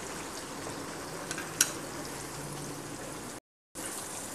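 Onion paste and a pat of butter frying in hot oil in a non-stick karahi, a steady sizzle. A sharp click about one and a half seconds in, and the sound cuts out for a moment near the end.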